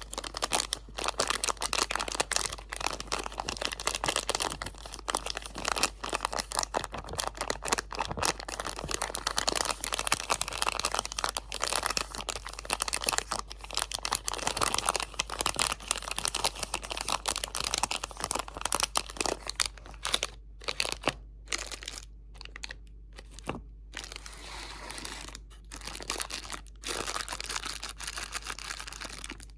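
Close-miked crinkling of crinkly material being handled and crumpled, dense and continuous at first, then sparser with several short pauses in the latter part.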